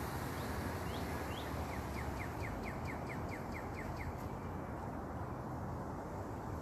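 A songbird singing: three quick rising notes, then a fast run of about ten short down-slurred notes, over a steady low background noise.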